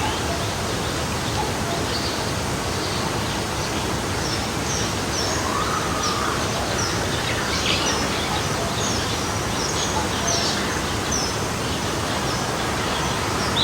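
A forest stream flowing steadily, with songbirds chirping and whistling over it, the calls becoming more frequent from about four seconds in.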